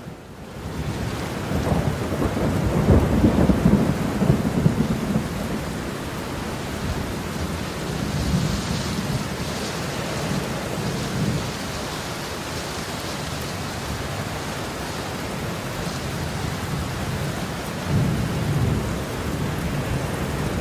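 Heavy rain falling steadily with rolling thunder: a long low rumble swells about two seconds in and fades after about five seconds, and a smaller rumble comes near the end.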